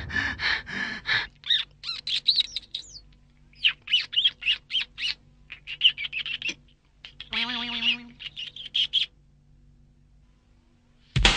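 Birds chirping and calling in quick series of short, high notes, some gliding up and down; the calls stop about nine seconds in.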